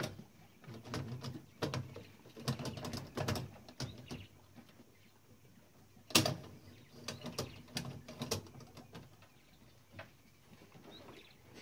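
Irregular metallic clicks and knocks as tools work inside a Klein Adler 2 typewriter during disassembly. One sharper, louder knock comes about six seconds in.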